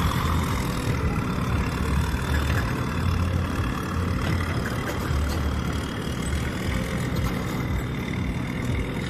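Diesel river-boat engine running steadily with a heavy low rumble that swells and eases every second or so.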